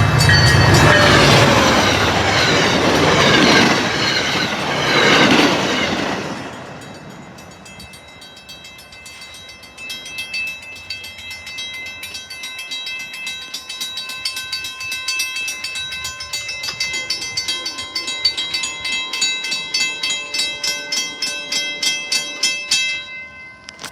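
MBTA commuter train passing over a grade crossing, its diesel locomotive rumbling and its coaches rushing and clattering over the rails for about the first six seconds. After it has passed, the crossing warning bells go on ringing in a steady rhythm, then stop abruptly near the end as the signal switches off.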